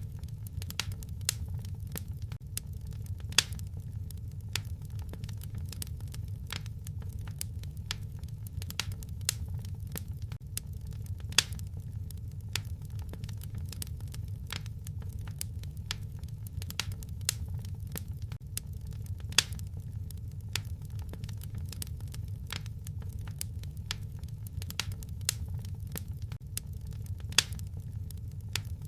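Wood fire crackling in a fireplace: a steady low rumble under frequent small pops, with a few louder, sharper pops spread through.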